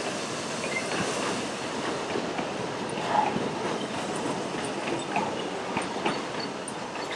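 Puffing Billy narrow-gauge heritage train running, a steady rumble with many small irregular clicks and knocks from the wheels and carriages.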